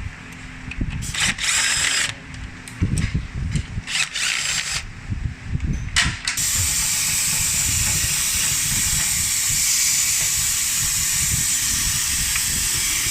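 Several short bursts of a power tool, then from about six seconds in a steady hiss that does not let up.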